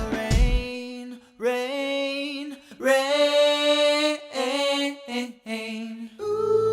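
Wordless sung vocal phrases over very sparse accompaniment, then a steady held chord comes in about six seconds in.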